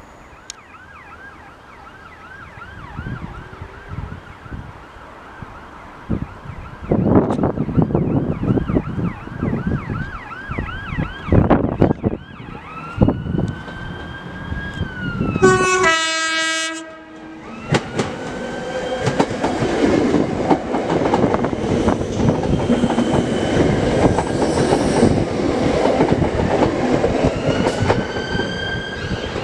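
A Class 319 electric multiple unit approaches and runs along the platform: wheels clatter and knock over the rails, and a short horn blast sounds about halfway through. The train then rumbles past close by.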